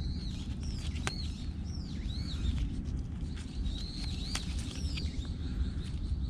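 A songbird singing a string of short whistled notes that drop and arch in pitch, about one to two a second, over a steady low rumble.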